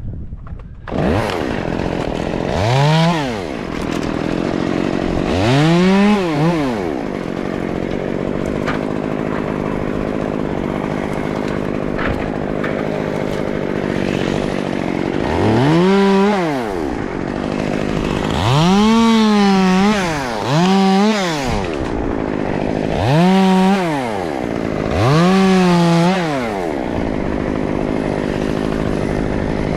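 Two-stroke chainsaw starting about a second in, then idling with seven quick rev-ups, each rising sharply in pitch and falling back to idle.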